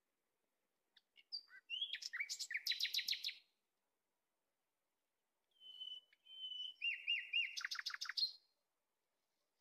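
A songbird singing two phrases, about two seconds in and again near six seconds, each a quick run of repeated high notes; the second opens with a short held whistle.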